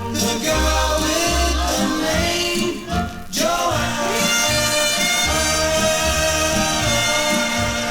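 A 1957 pop single playing in a stereo remix: a singer over band accompaniment, with a brief drop in level about three seconds in.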